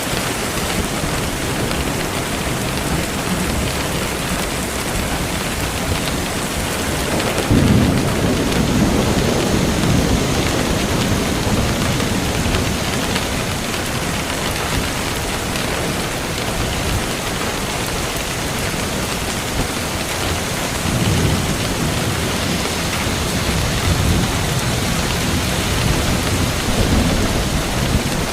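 Heavy rain falling steadily, with rumbles of thunder that start suddenly about a quarter of the way in and come again several times in the last third.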